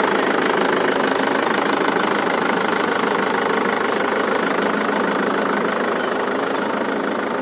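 Mahindra Yuvo 415 tractor's diesel engine running steadily while pulling a potato planter.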